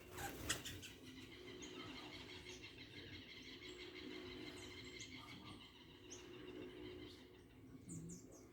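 Small birds giving short high chirps over a steady pulsing trill that stops about six seconds in, with a sharp knock about half a second in.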